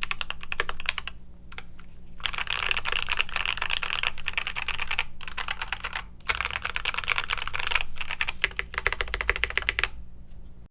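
Typing on a mechanical keyboard: light, scattered keystrokes for the first couple of seconds, then fast continuous typing with a brief pause about six seconds in, thinning out near the end.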